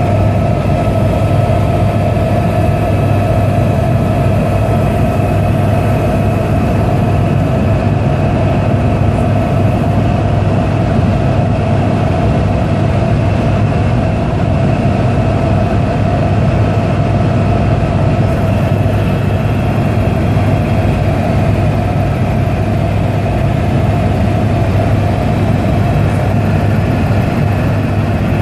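Helicopter engine and rotor running steadily in flight: a loud, constant low drone with steady higher tones over it.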